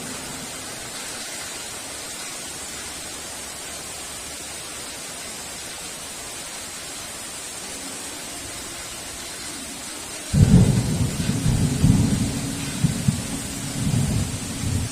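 Steady heavy rain, with a sudden loud clap of thunder about ten seconds in that rumbles low and uneven for about four seconds, then breaks off sharply.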